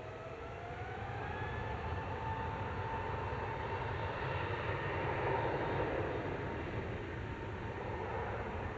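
Jet airliner's engines passing: a whine that rises in pitch over the first two seconds, over a rumble that builds to its loudest a little past halfway and then eases.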